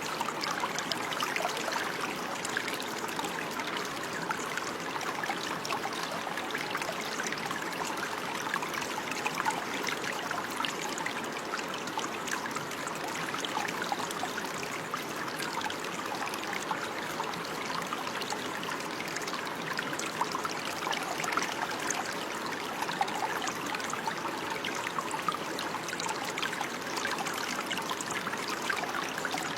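Running water in a small stream, bubbling and trickling steadily with fine splashes.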